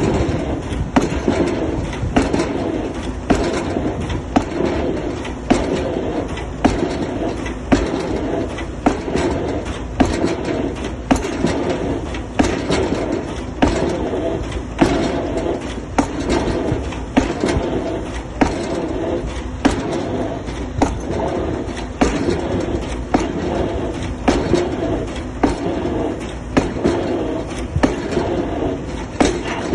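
Excavator drop hammer striking a square concrete pile, driving it in with sharp, evenly spaced blows about once a second over a steady machine rumble.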